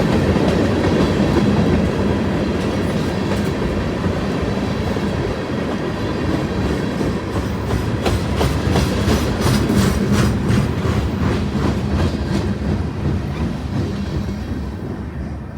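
Train cars rolling past on the track, a steady rumble of wheels with a run of rhythmic clicks over rail joints in the middle, fading away near the end.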